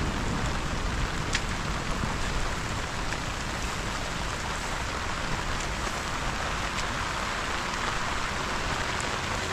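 Steady rain, an even wash of noise with a few sharp drop ticks.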